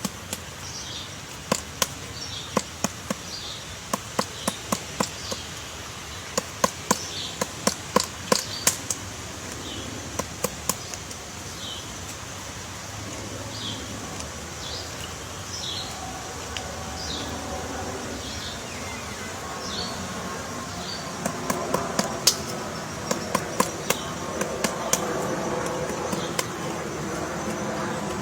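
Common flameback woodpecker chiselling at wood to dig out its nest hole: sharp taps in quick, irregular runs for about the first nine seconds, then again about three-quarters of the way through. A vehicle engine hum grows in the background in the second half.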